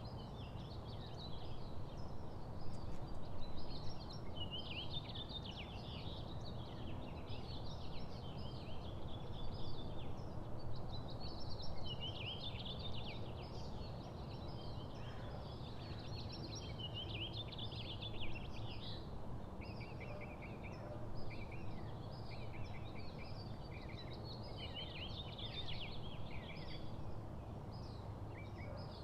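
Small songbirds chirping and singing almost without pause, quick warbled phrases and runs of short repeated notes, over a steady low background rumble.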